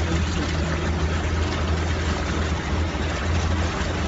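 Car engine running with a steady low drone under a constant hiss, while driving along a flooded road in a typhoon rainstorm.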